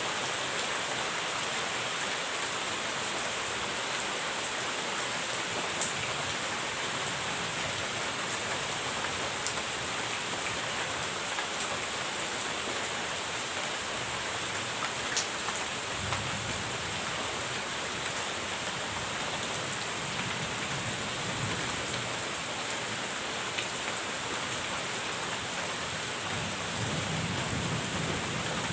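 Steady rain falling on a surface, with a few sharp louder drops. A low rumble of distant thunder swells about halfway through and again near the end.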